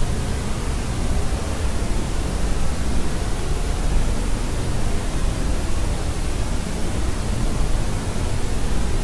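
Steady white-noise track, weighted toward the low end like pink noise: an even hiss and rumble with no changes or breaks.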